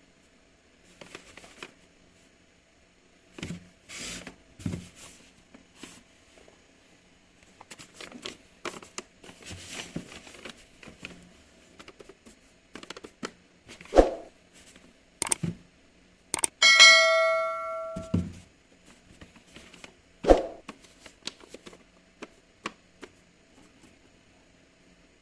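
Handling noises: scattered clicks, knocks and rustling of packaging and plastic parts being moved about, with a few sharper knocks. About two-thirds of the way through comes a short ringing, bell-like ding that dies away within a second or so, the loudest sound in the stretch.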